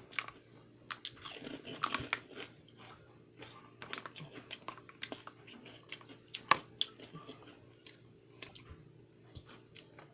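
A person chewing and crunching fish crackers close to the microphone, in irregular crackly bites.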